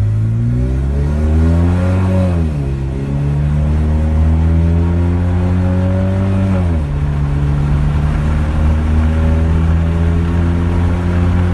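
Stage 2 tuned BMW 320i E90's four-cylinder petrol engine and exhaust pulling under acceleration. Its pitch climbs, then falls sharply twice, about two and a half and about seven seconds in, as it shifts up, and climbs slowly again after each shift.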